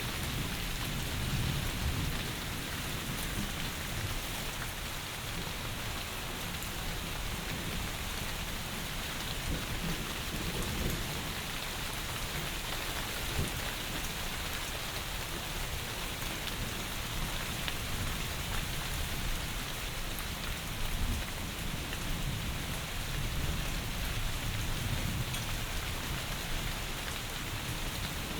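Heavy rain falling steadily as a dense, even hiss, with low rumbles swelling at the start and again near the end.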